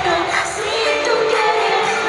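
Live pop song: a female singer holding long notes over the band's backing.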